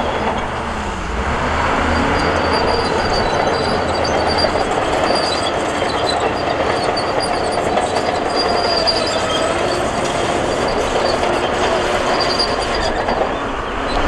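A crawler bulldozer working: its diesel engine running under load while the steel tracks clank and squeal steadily.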